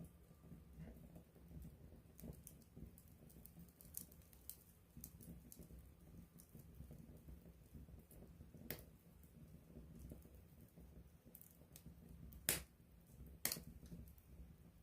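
Wood campfire burning close up: faint crackling over a low rustle of flame, with three louder sharp pops, one past the middle and two near the end.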